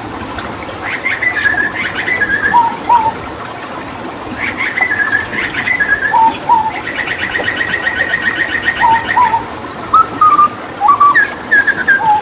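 Hooded butcherbird singing repeated phrases of short whistled notes, each group followed by a pair of lower notes, with a rapid rattling trill in the middle, over a steady rush of running water.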